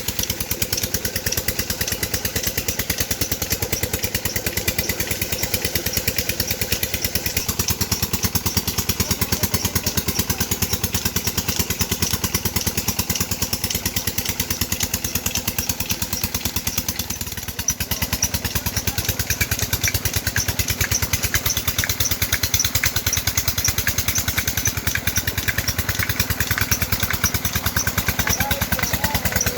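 Petter diesel engine running steadily with a rapid, even beat, dipping briefly about two-thirds of the way through.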